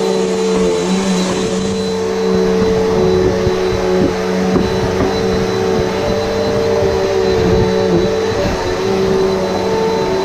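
Upright vacuum cleaner running steadily, a constant motor hum with a thin high whine over the rush of air.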